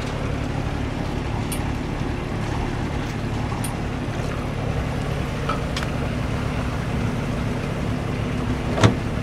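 Sailboat's auxiliary engine running steadily as the boat motors under way, a low even hum. A short sharp knock comes near the end.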